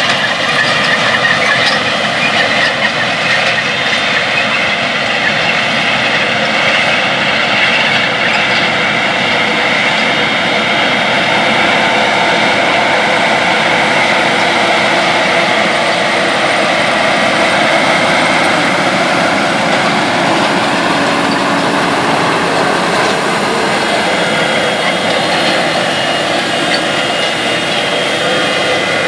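A 600-plus-horsepower tractor pulling a 60-foot air drill, its engine running steadily under load with a high, steady whine on top.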